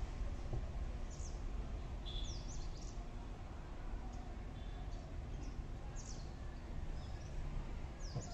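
Small birds chirping now and then, short high calls with quick rising and falling glides, over a steady low background rumble.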